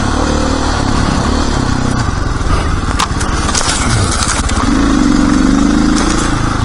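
Dirt bike engine running under way, picking up revs about five seconds in, with a sharp tick about three seconds in.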